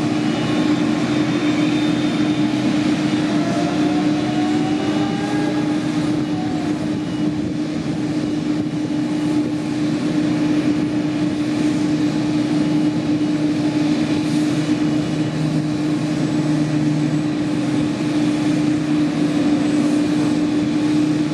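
Boeing 787-8's GEnx-1B turbofan engines running steadily at idle, a constant low tone under a broad jet rush.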